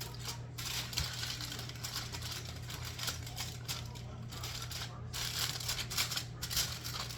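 Aluminium foil crinkling and crackling as it is pressed down over a pot to cover it, over a steady low hum.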